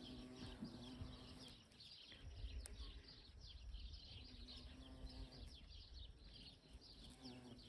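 A bumblebee buzzing close by in flight, a low steady hum heard in three bouts: at the start, about halfway, and near the end. Birds chirp continually in the background.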